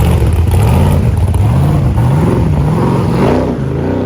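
A car's engine running loud and low, its pitch rising and falling a few times as it revs while pulling away.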